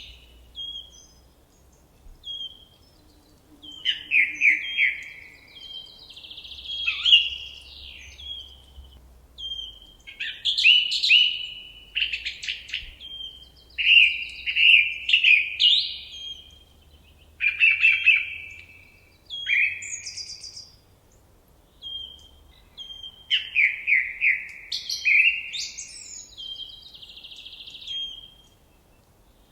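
Forest songbirds singing: short, varied phrases of chirps, whistles and quick runs of repeated notes, with brief pauses between them.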